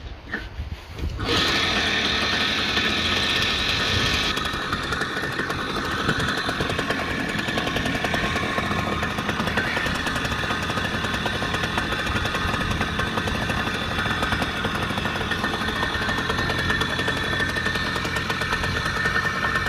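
Motorcycle engine that comes in abruptly about a second in and then runs steadily, with a buzzy, rapid firing note.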